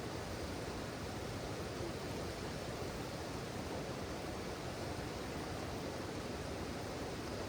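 Steady, even rush of river water running.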